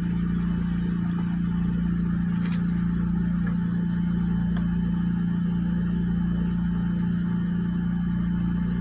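A steady low hum holding one unchanging pitch, with a few faint clicks.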